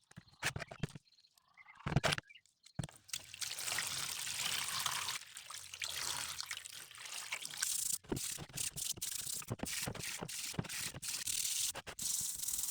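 Rust being scrubbed off metal by hand with a brush, a steady rasping rub made of quick strokes. It starts about three seconds in, after a few scattered knocks.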